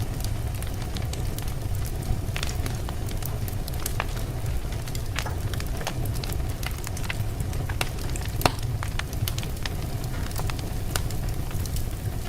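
Logs burning in a fireplace: a steady low rumble and hiss of the flames with irregular sharp crackles and pops, one louder pop about eight and a half seconds in.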